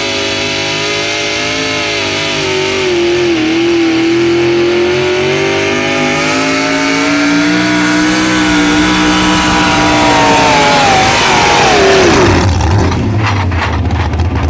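Pulling truck's engine running at high revs under heavy load as it drags the sled, its pitch sagging a little as it works, then falling away about eleven to twelve seconds in as the throttle comes off. A lower rumble with rattling follows near the end.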